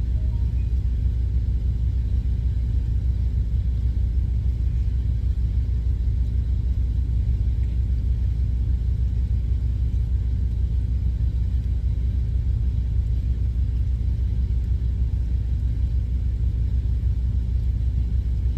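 Semi-truck's diesel engine idling with a steady low rumble, heard from inside the cab.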